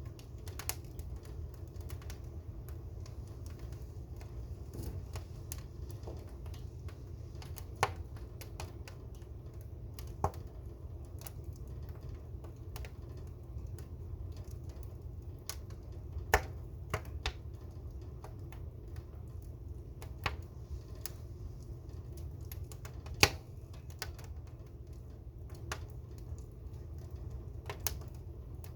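Fire crackling, with sharp pops at irregular intervals, a few much louder than the rest, over a steady low rumble.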